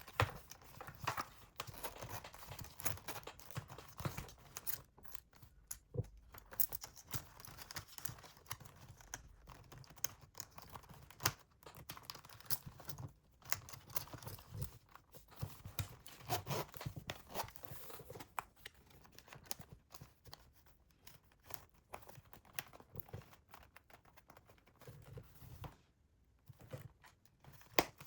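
Rustling and crinkling with irregular light clicks and knocks as small household items and wrappings are handled, quieter for the last couple of seconds.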